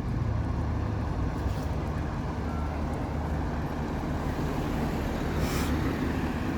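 Diesel buses idling in a bus station: a steady low engine rumble, with a short hiss about five and a half seconds in.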